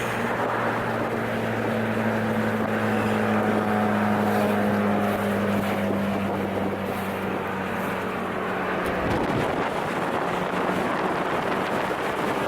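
Ford Focus ST's turbocharged 2.0-litre four-cylinder running with its electronic exhaust cutout open (catless downpipe, resonator deleted), a steady drone at constant engine speed. About nine seconds in the note breaks briefly, then comes back and slowly rises in pitch.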